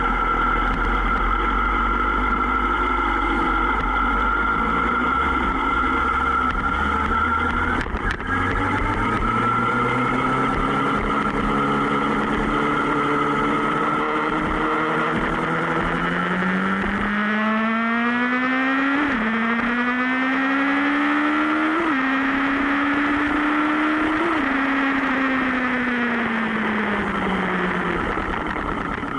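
Sport motorcycle engine running steadily, then accelerating from about halfway, its revs climbing and dropping back three times as it shifts up through the gears, before easing off with the revs falling near the end.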